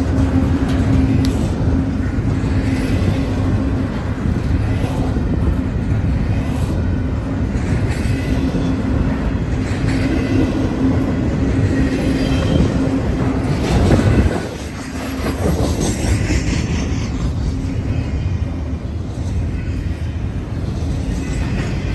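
Double-stack intermodal container train rolling steadily past, its cars rumbling and clattering over the rails with a steady hum. The sound changes abruptly about fourteen seconds in.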